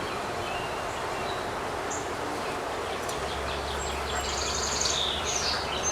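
Honey bees buzzing steadily around an open hive, with small birds chirping in the background from about four seconds in.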